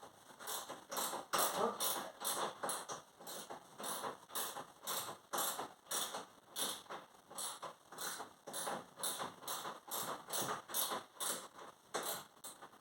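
Hand ratchet wrench being worked back and forth on a 13 mm bolt, its pawl clicking in a steady, regular rhythm of about three strokes a second.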